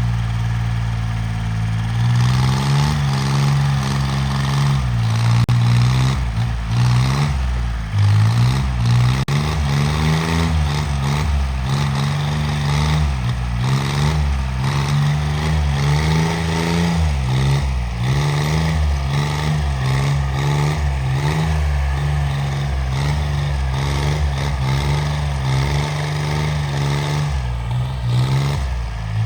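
Homemade tractor's engine running steadily and loudly, its pitch swinging up and back down about once a second.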